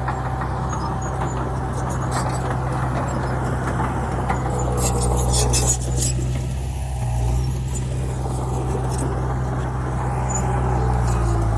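Heavy diesel engine of earthmoving equipment running steadily, its note shifting a little past halfway and again near the end, with a short spell of clicks and rattles about five seconds in.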